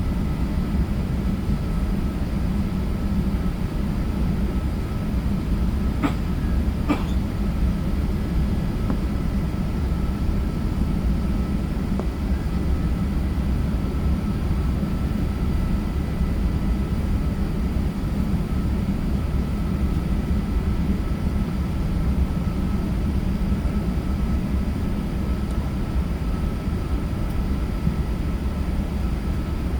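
Steady low rumble of an Airbus A380 with its engines running, heard from inside the cabin, with a faint steady high whine over it. Two short clicks come about six and seven seconds in.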